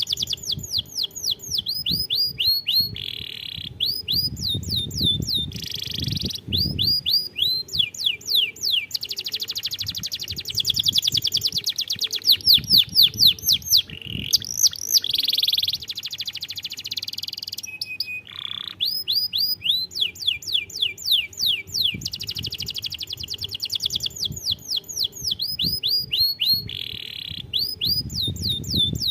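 Domestic canary singing a long, fast song: quick series of repeated down-slurred whistles alternating with dense buzzy rolls, with only brief pauses.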